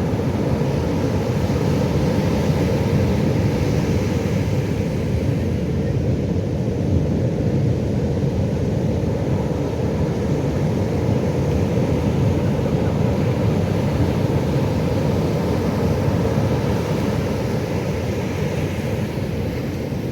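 Pacific Ocean surf: a steady, deep rumble of waves breaking with no distinct single crash.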